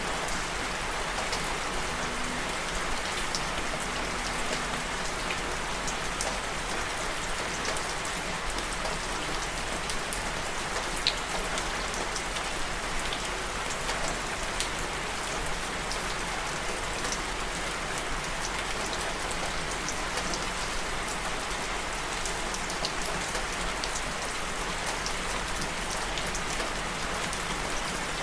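Steady rain falling, with a dense hiss and many individual drops tapping on a surface.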